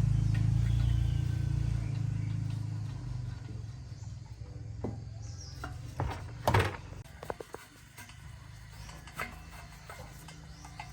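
A low machine hum that fades away over the first few seconds, followed by a few scattered knocks and ticks, the loudest about six and a half seconds in.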